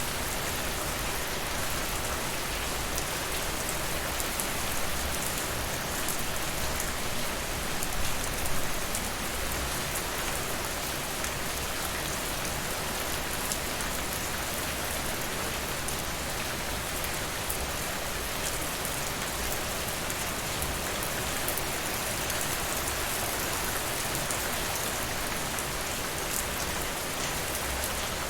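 Steady rain falling, an even hiss with faint scattered ticks of drops, a little louder twice about eight seconds in.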